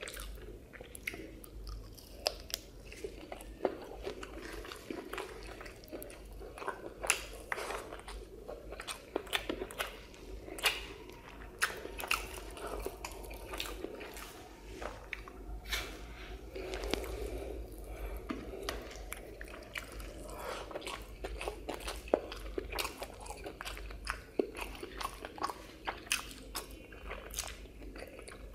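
Close-miked mukbang eating sounds: a person chewing mouthfuls of rice, fried fish and egg curry eaten by hand, with a steady stream of short, sharp wet clicks and smacks of the mouth and teeth.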